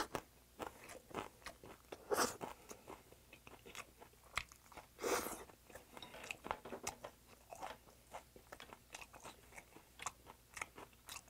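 A person chewing a mouthful of raw silver pomfret (butterfish) sandwich with romaine lettuce and onion: wet smacking and crunching in many short, irregular clicks, with a few louder bursts about two and five seconds in.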